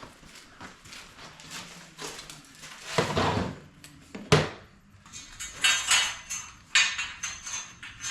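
Small metal conduit fittings clinking and rattling in the hands: a 3/4-inch rain-tight EMT connector being handled and tried in the knockout hole. There is one sharp knock a little past four seconds in, then a quick run of ringing metallic clinks.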